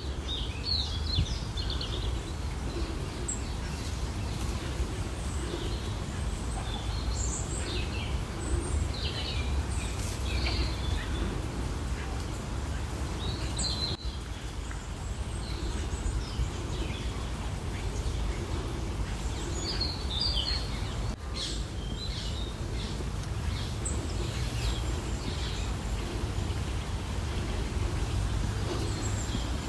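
Birds chirping in scattered short calls over a steady low background rumble.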